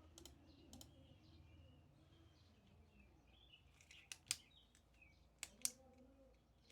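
Near silence broken by a handful of isolated computer keyboard key clicks, the two loudest a little past halfway, with faint bird chirps in the background.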